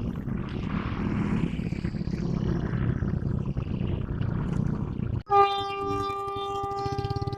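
GE diesel locomotive idling with a low rumble; about five seconds in, after a brief break, its horn sounds one steady note for about two seconds.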